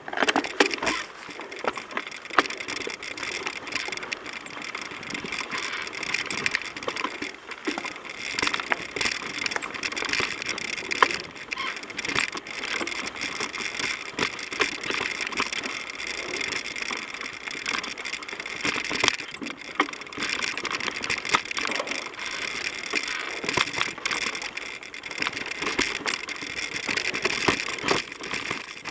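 Mountain bike being ridden along a dirt singletrack: steady tyre and riding noise with frequent rattles and knocks from the bike over roots and bumps.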